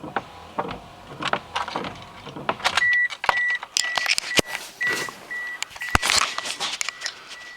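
Footsteps, about three a second, then a car's warning chime starts beeping, a short high beep about twice a second, among the clicks and knocks of the door and someone climbing into the car.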